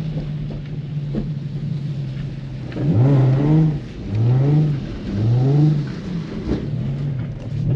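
Nissan 350Z's 3.5-litre V6 running steadily, then from about three seconds in revved in about four quick pulls, each rising and falling in pitch, as the car is thrown around on a slick wet surface.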